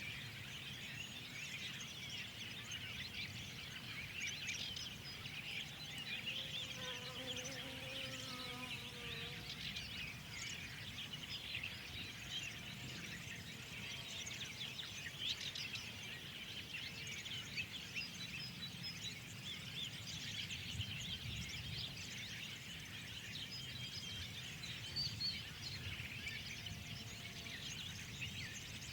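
Many songbirds chirping and singing at once in a dense chorus of short, high calls over a steady low rumble. About a third of the way in, a lower drawn-out sound with several even tones lasts a few seconds.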